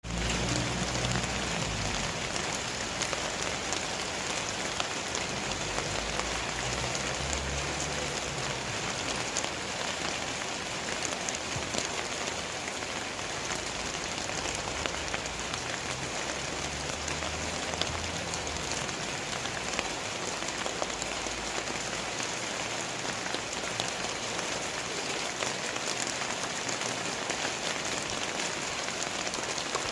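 Heavy rain pouring steadily, a dense even hiss of drops on surfaces, with some low rumbling in the first half.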